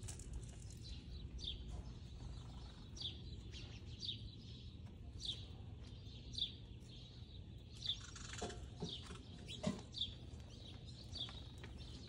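A songbird repeating a short, high, downward-slurred call note every half second to a second, over a steady low outdoor hum. Two brief soft knocks come about two-thirds of the way through.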